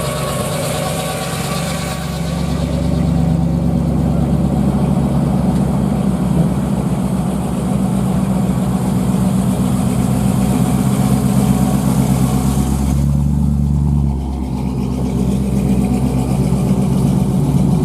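A car engine running loud and steady at a low, even note; it grows louder about two seconds in and eases briefly about fourteen seconds in.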